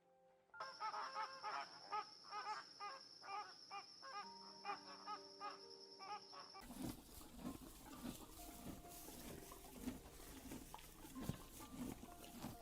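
Two different animal recordings back to back. The first is a run of rapid repeated calls over a steady high tone. After a sudden change about halfway through comes a stretch of lower calls over a rushing noise. Faint background music notes sound underneath.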